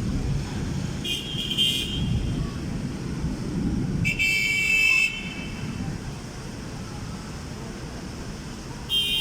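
Car horns honking three times, each blast about a second long, over the low rumble of street traffic.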